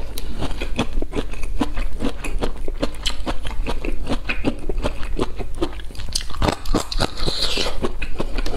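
A person biting and chewing crisp hand-peeled bamboo shoot close to a lapel microphone: a quick run of sharp crunches, several a second.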